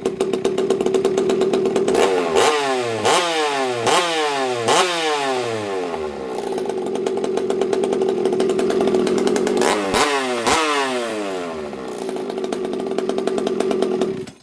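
Two-stroke chainsaw idling with the throttle blipped: four quick revs a couple of seconds in, two more near the middle, each rising and falling back to idle, then the engine cuts off at the end. The owner judges it to be running a little on the rich side.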